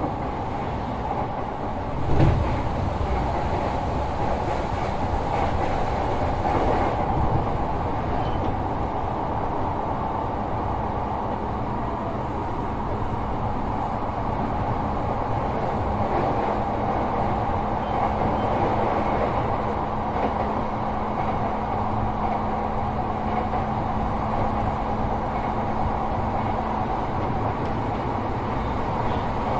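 Running sound of a Sotetsu 12000 series electric train, heard inside motor car MoHa 12909 with its Mitsubishi IGBT-VVVF drive: a steady rumble of wheels on rail with a single knock about two seconds in. A steady low hum comes in at about 16 seconds and fades out near 27 seconds.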